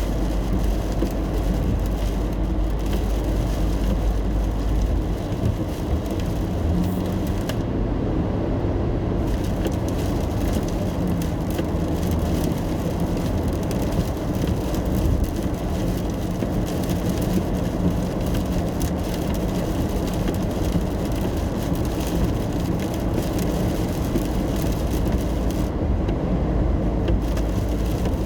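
Steady noise inside a car driving in the rain: a low rumble of engine and tyres on the road, with the hiss of rain and spray over it.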